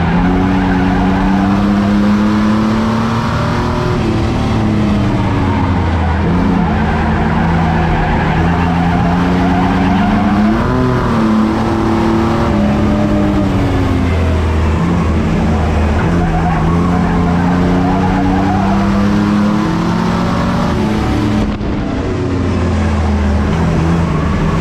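Racing trucks' engines running hard in an enduro race, their note climbing and dropping over and over as they accelerate and lift, with a sharp rise and fall about eleven seconds in. Steady tyre and track noise runs underneath.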